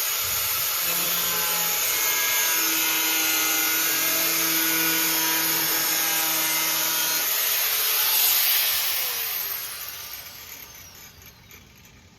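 Angle grinder with a cut-off wheel cutting through a car's sheet-steel floor pan, a loud steady grinding whine. It is switched off about eight and a half seconds in and its falling whine winds down over the last few seconds.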